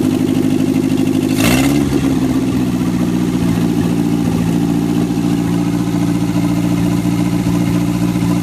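Riley 2.5 Litre four-cylinder engine running steadily on a rolling chassis; about a second and a half in it revs briefly with a sharp noise, its pitch rising and then settling back to a steady run.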